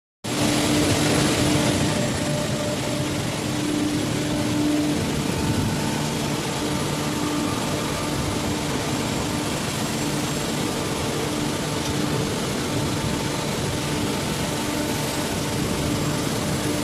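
A vehicle running steadily: a constant engine drone and travel noise with a steady low hum, starting suddenly just after the start.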